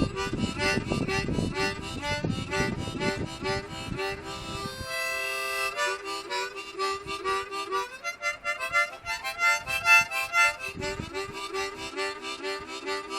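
Harmonica playing blues, quick shifting chords and notes. Wind buffets the microphone with a low rumble during the first few seconds and again near the end.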